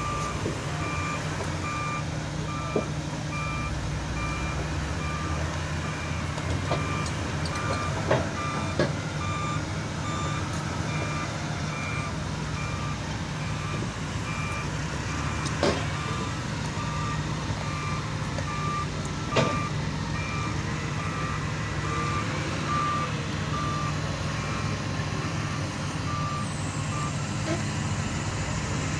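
Heavy machinery's reversing alarm beeping in a steady, evenly spaced series over a steady diesel engine rumble, stopping near the end. A few sharp knocks stand out along the way.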